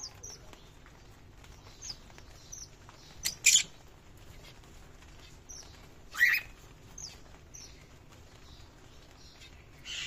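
Cage birds calling: a string of short high chirps, with two loud harsh calls about three and a half and six seconds in.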